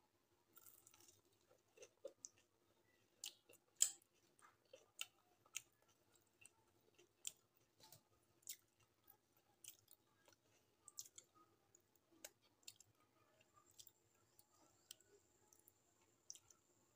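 Quiet close-miked eating sounds of a person chewing a bite of onion pakora: scattered sharp, wet clicks and smacks about once or twice a second, over a faint steady hum.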